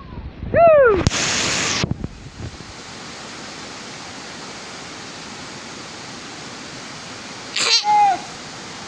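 Steady rushing of river water, an even hiss with no rhythm. It is broken by a short shouted call about half a second in, a brief loud burst of noise just after, and another short call near the end.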